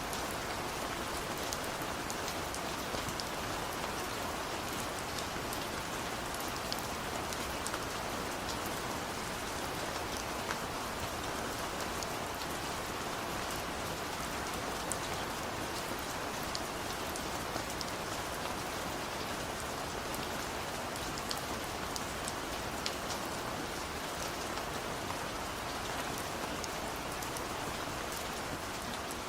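Heavy rain falling steadily, a constant dense hiss with the fine patter of individual drops striking a surface.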